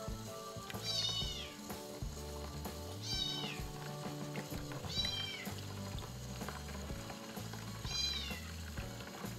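A kitten about a month old meowing four times while being shampooed, each meow a short high call that falls in pitch, over background music.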